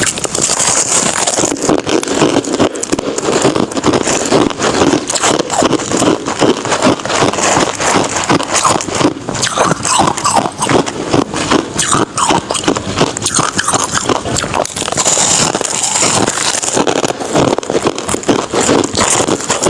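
Ice being bitten and crunched close to the microphone: a dense, continuous run of crisp crunches and crackles.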